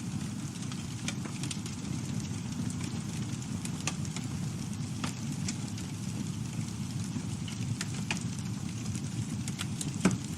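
Campfire burning, with a steady low rush of flame and wood crackling in scattered sharp pops, one louder pop near the end.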